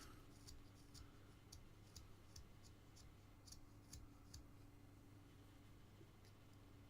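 Near silence: a low steady room hum with faint, irregular light clicks, most of them in the first four seconds or so.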